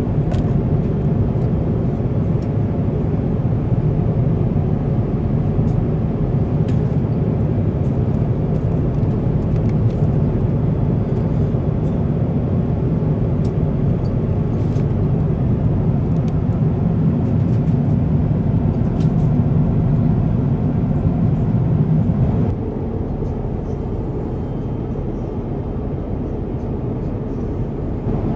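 Steady low rumble of airliner cabin noise inside an Airbus A350-1000, with faint scattered clicks and rattles. About 22 seconds in, the level drops suddenly to a quieter steady rumble.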